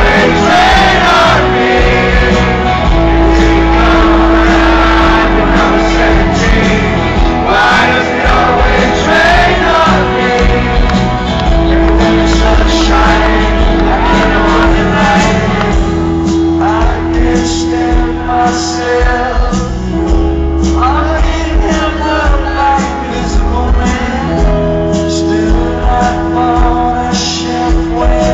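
Live band playing a pop-rock song, with sung vocals and the crowd shouting and singing along.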